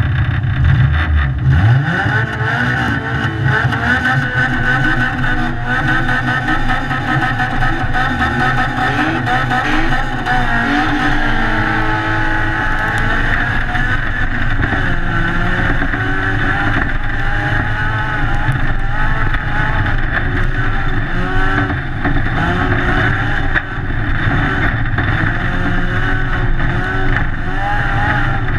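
Toyota MR2 autocross car's engine revving hard as it pulls away from the start, rising in pitch through several gear changes, then running at high revs with the throttle easing on and off across the rough dirt field.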